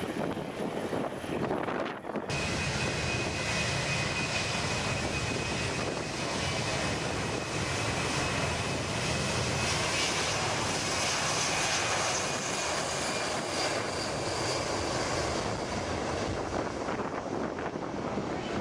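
Aircraft engine noise at an airshow: a loud, steady rushing sound with a high whine on top. It starts abruptly about two seconds in, after a couple of seconds of wind noise.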